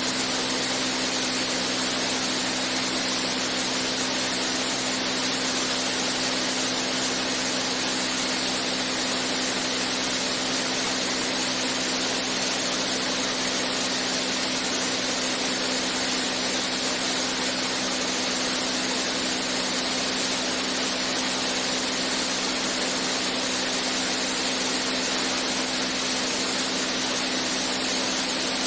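Beechcraft A36 Bonanza's six-cylinder piston engine and propeller droning steadily in flight, heard inside the cockpit, with a strong low hum that never changes.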